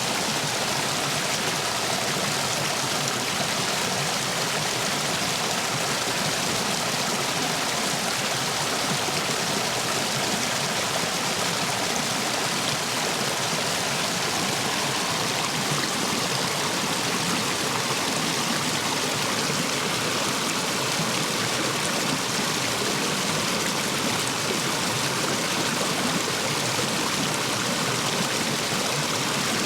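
Stream water rushing and splashing through a line of stepping stones, running full after heavy rain: a steady, unbroken rush.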